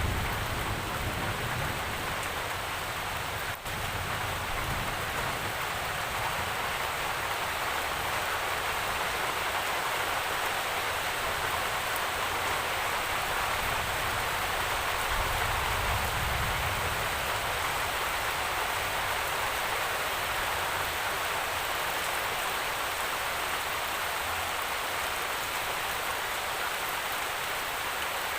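Steady heavy rain falling, an even hiss of drops on surfaces. A low rumble swells near the start and again about halfway through.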